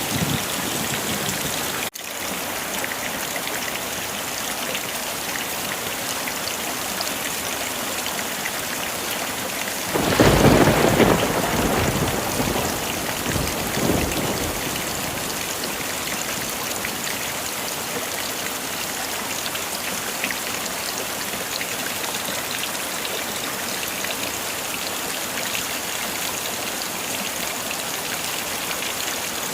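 Heavy rain falling steadily with an even hiss. About ten seconds in, a roll of thunder rumbles for a couple of seconds, and a weaker swell follows a few seconds later.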